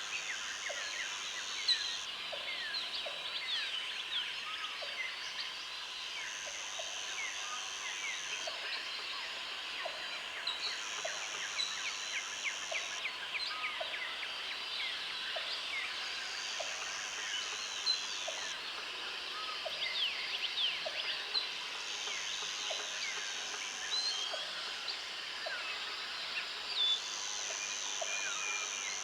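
Outdoor country ambience: a dense chorus of many small chirping calls, most likely birds, with a high buzzing trill that sounds for about two seconds at a time every few seconds and a soft tick roughly once a second.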